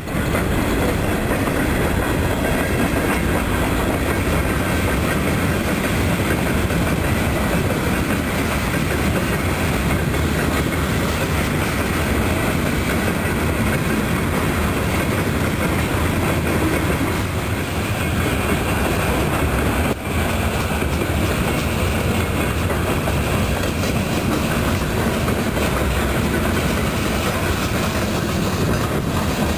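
Freight cars (tank cars, boxcars and covered hoppers) rolling past at close range. Their wheels on the rails make a loud, steady rolling rumble.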